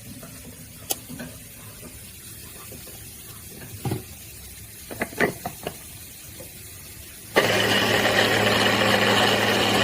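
Mini electric capsule chopper: a few knocks and clicks as it is handled, then its motor switches on about seven seconds in and runs loudly and steadily for about two and a half seconds before stopping.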